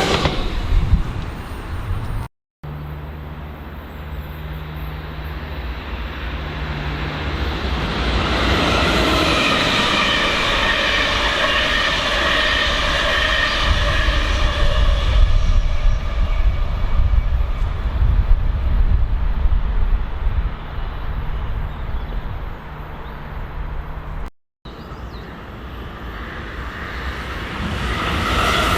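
Electric trains passing on the line: a steady rumble of wheels on track with a low hum, and in the middle a whine of several tones that swells and fades. The sound breaks off twice, briefly, about two seconds in and near the end.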